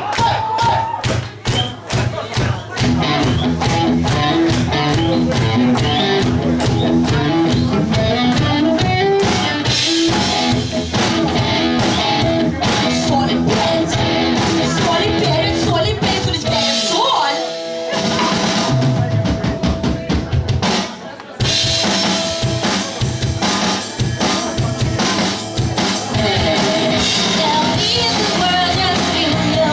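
Pop-punk band playing live: drum kit, electric guitars and bass at full volume. About two-thirds through, the drums and bass drop out briefly under a held guitar note, then the band comes back in.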